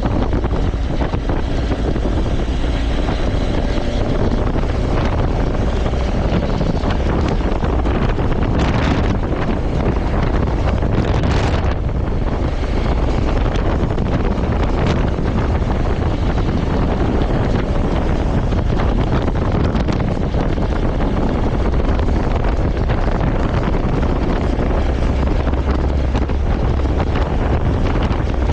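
Steady wind rush buffeting the microphone of a motorcycle moving at speed, a deep rumble with a hiss on top, and the motorcycle's running faintly mixed in.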